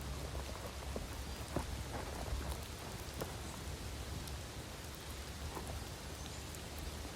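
Heavy rain falling steadily, with many separate drops ticking sharply on a nearby surface and a steady low rumble underneath.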